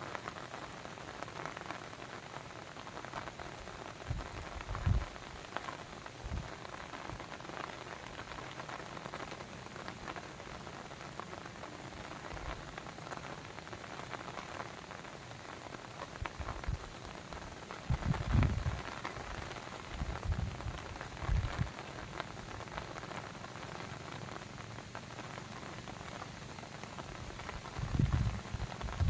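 Steady pattering water noise, like rain or a babbling brook, with occasional short low thuds, several bunched together about 18 seconds in and again near the end.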